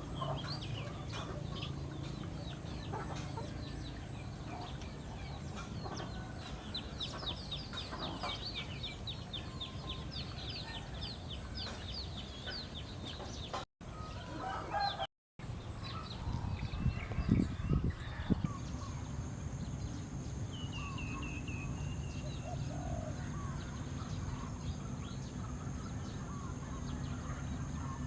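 Birds calling outdoors, with a long run of quick high chirps in the first half. The sound drops out twice just before the middle, and a louder low rustle comes a few seconds later.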